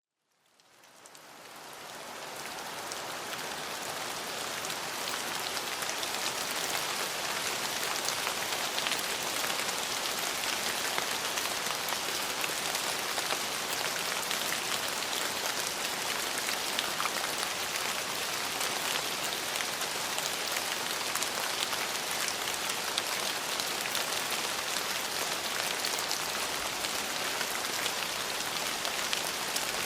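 Steady rain falling on hard surfaces, a dense even hiss of many fine drop patters, fading in over the first couple of seconds and then holding steady.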